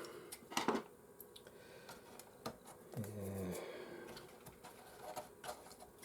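Scattered small clicks and taps of a ribbon cable and its plastic connector being unplugged and handled inside an opened PlayStation 4, with a brief low hum about three seconds in.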